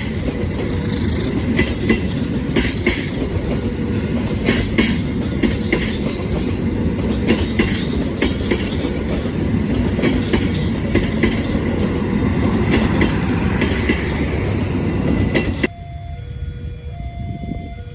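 Train passing close by: a loud, steady rumble of wheels on rail with a run of sharp clicks as the wheels cross rail joints. It cuts off abruptly near the end, giving way to a quieter pattern of short repeating electronic tones.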